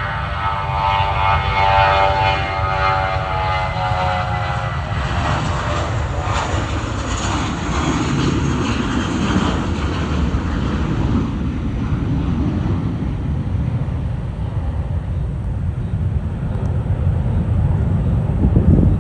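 Airbus A320 jet airliner passing, its engine whine falling in pitch over the first few seconds as it goes by. This gives way to a steady, deep jet rumble, which swells briefly near the end.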